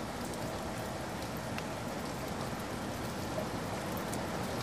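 Steady rain falling, with scattered single drops ticking on a hard surface.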